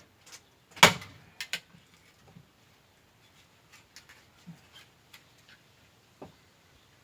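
Firewood being chopped: one loud, sharp strike on wood about a second in, then two lighter knocks, scattered small ticks and clatter of wood pieces, and another sharp knock near the end.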